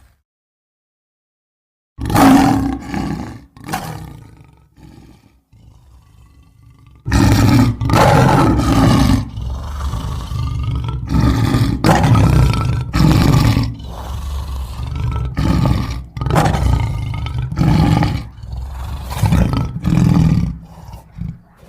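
Deep animal roars played as a sound effect. After about two seconds of silence comes a single roar. From about seven seconds a long string of loud, repeated roars follows, one every second or two.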